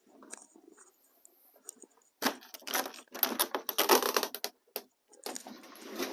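Frozen sleet and snow crust crunching and crackling in irregular bursts, faint at first, then loud from about two seconds in with a short break near the end.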